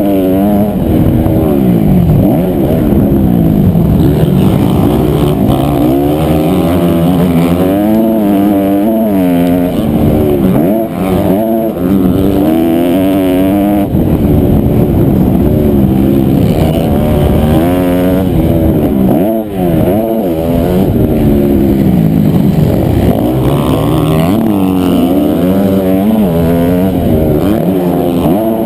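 Honda CRF250R four-stroke single-cylinder motocross bike engine under racing throttle, its pitch climbing and falling again and again as the throttle is opened and shut, with a couple of brief drops where the throttle is chopped.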